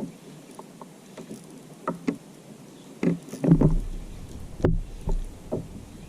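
Irregular knocks and bumps on a plastic sit-on-top fishing kayak, with a cluster of louder thumps about three to four seconds in and one sharp knock near five seconds.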